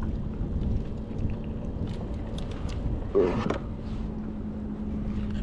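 A motorboat's engine hums steadily under wind and water noise, the hum growing stronger a little past halfway, with a brief louder sound about three seconds in.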